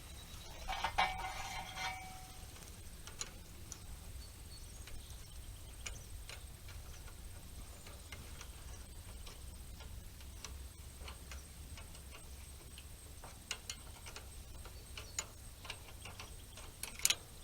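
Irregular light metallic clicks and ticks of a wrench working the bolts on a hay rake's teeth, with a brief squeak about a second in.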